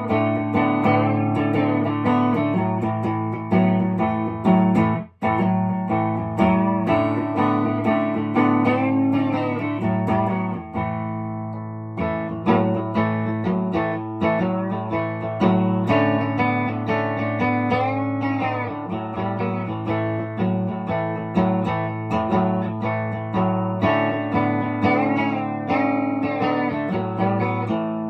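1961 Gretsch 6121 hollow-body electric guitar playing picked single-note lines and chords, with some notes bent up and down in pitch. Just before halfway a chord is left to ring and fade, then the playing resumes.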